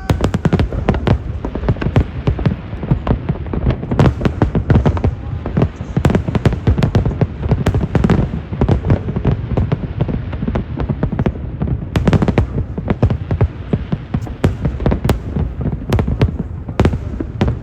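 Large aerial fireworks display: a dense, continuous barrage of booms and sharp crackling bursts over a heavy low rumble, thickening into several heavier clusters.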